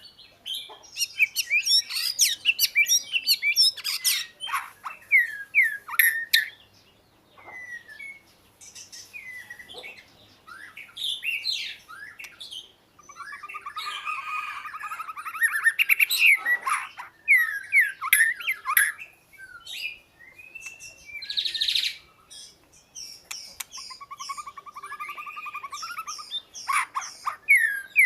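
Oriental magpie-robin singing: a long run of varied whistled phrases and quick chirps, broken by harsh rasping notes.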